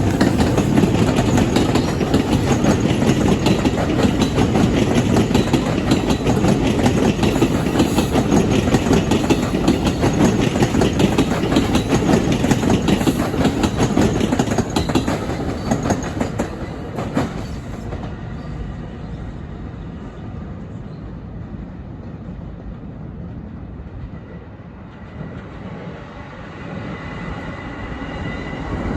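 A train passing close by, the loud rumble and clatter of its wheels on the rails dying away after about sixteen seconds, then the sound building again near the end as more train noise comes in.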